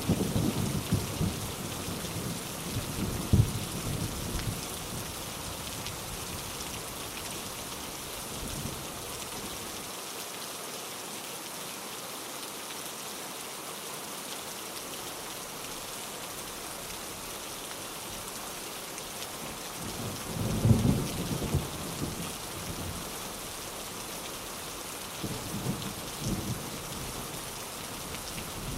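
Steady rain with thunder rumbling now and then: low rolls in the first few seconds, the loudest peal about two-thirds of the way through, and a softer one shortly after.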